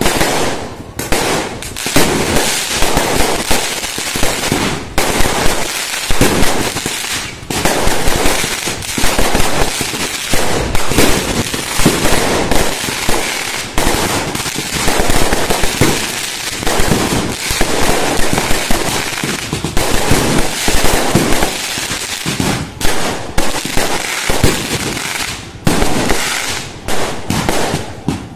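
Fireworks going off in a dense, continuous barrage of bangs and crackling, with loud peaks throughout.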